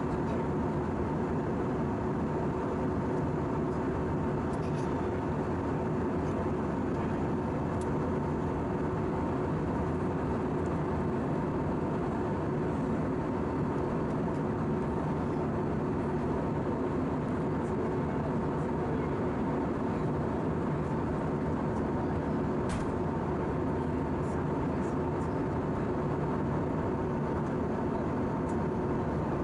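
Steady cabin drone inside an Airbus A319-111 in flight: the CFM56 engines and rushing airflow make an even roar with two constant hums, and a few faint clicks.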